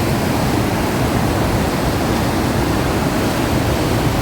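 River water rushing over a waterfall and rapids: a loud, steady roar of falling water.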